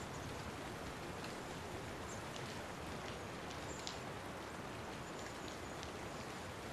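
Steady rain making an even hiss, with scattered sharp ticks of single drops landing.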